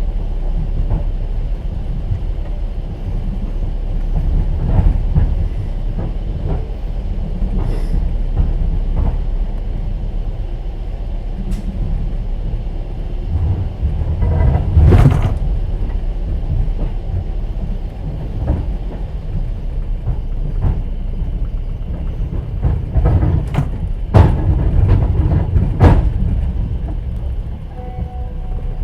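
Inside a moving passenger train carriage: the steady low rumble of the running train, with the wheels knocking and clattering over rail joints. The knocks are loudest about halfway through and twice near the end.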